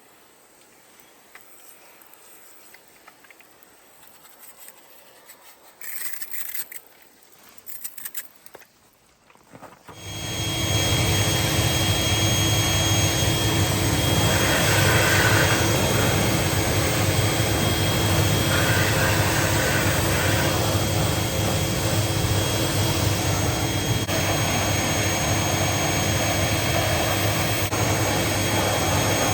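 A few faint handling knocks, then about ten seconds in a car engine starts and runs steadily at a constant level, with a low hum and a thin high whine.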